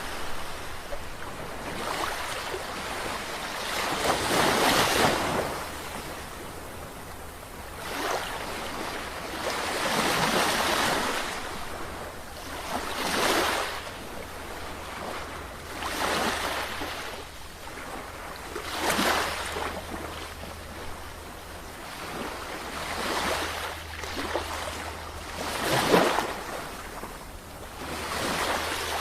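Sea waves breaking and washing in, one after another every two to three seconds, each a swell of rushing surf that rises and falls away, over a steady low rumble.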